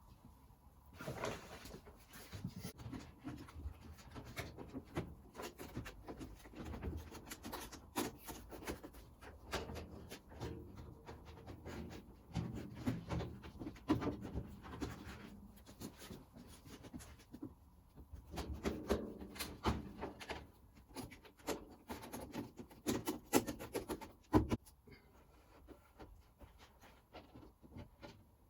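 Irregular hand-working noises: scattered small knocks, clicks and rubbing of parts being handled and fitted, with a few sharper knocks near the middle and just before the end.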